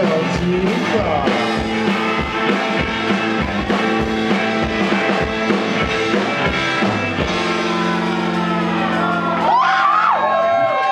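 Live rock band playing, with guitars, drums and singing. About seven seconds in the drum beats stop and a held chord rings on, with sliding high notes over it near the end.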